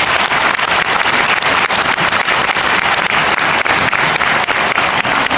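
Theatre audience applauding steadily: dense clapping from a large crowd at the close of a recited poem.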